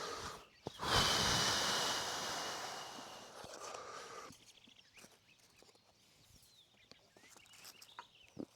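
A long breath blown onto an ember under char cloth to nurse it, a steady hiss with a faint whistle that fades out over about two seconds, followed by faint handling clicks and rustles.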